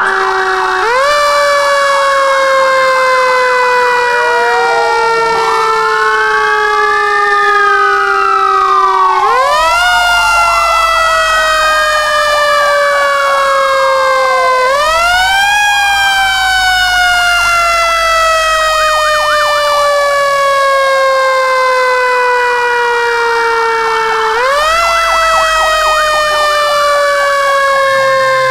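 Fire truck sirens sounding together. One siren tone jumps up and winds slowly down about four times, while another rises and falls in slow wails and a fast warbling tone comes and goes.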